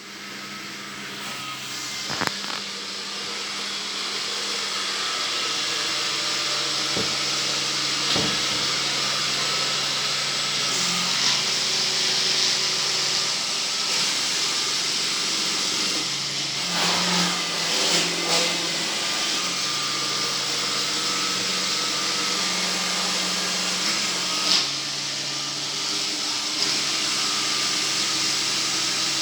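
Motorised sweeping machine running with a steady mechanical hum and hiss, building up over the first few seconds, with a few short knocks and clatters along the way.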